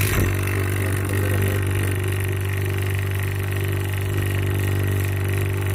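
Refrigeration vacuum pump switched on and running steadily with an even motor hum, evacuating the split air conditioner's refrigerant lines after the nitrogen pressure test.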